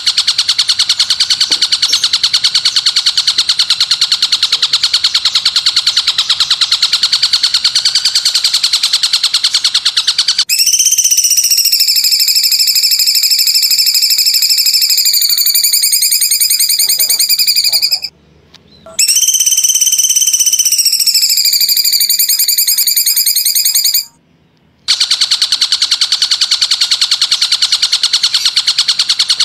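Recorded songbird song played for training other birds: a rapid, unbroken trill. About ten seconds in it switches to a clearer, ringing call whose pitch slides down in places, cut by two brief silent gaps.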